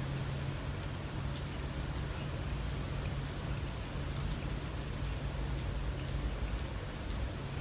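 Residential-area ambience of light rain and insects: an even hiss with a faint high insect trill that comes and goes, over a low steady hum.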